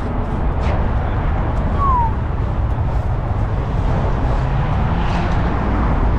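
Straight-piped Ford Mustang Shelby GT350's 5.2-litre flat-plane-crank V8 with long-tube headers, rumbling steadily at low revs, its note rising slightly in pitch later on. A brief falling squeak about two seconds in.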